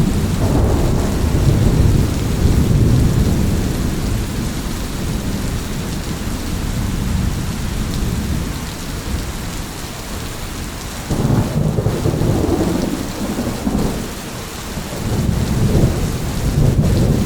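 Thunderstorm: steady heavy rain with thunder rumbling. A low rumble dies away over the first few seconds, a new peal breaks in suddenly about eleven seconds in, and another rumble swells up near the end.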